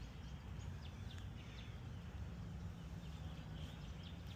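Faint, quick bird chirps repeating over a low, steady background rumble.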